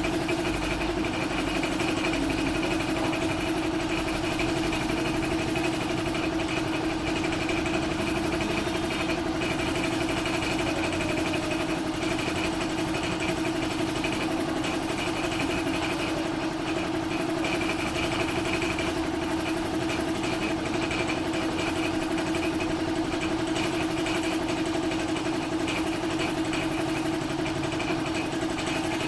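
A motor running steadily, a constant mechanical hum with one fixed pitch that does not change.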